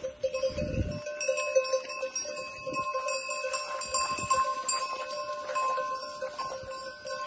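A flock of sheep and goats on the move, their neck bells ringing steadily, with scattered small clicks and knocks.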